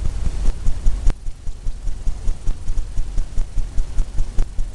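Fan brush loaded with oil paint tapping and dabbing against a canvas, giving an even run of soft low thumps about four to five a second.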